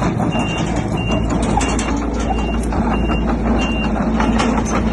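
Heavy machine's reversing alarm beeping about once every two-thirds of a second over a steady diesel engine rumble and scattered metallic clanks. The beeps stop near the end.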